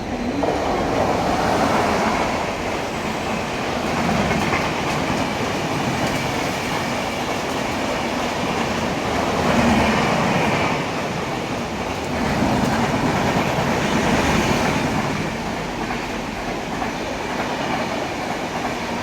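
Express train running on the rails: a steady rumble with the clatter of wheels over rail joints, swelling and easing every few seconds.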